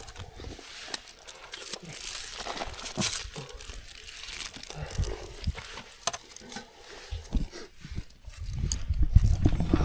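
Crinkling and rustling of something being handled, with scattered clicks and knocks, and a low rumble near the end.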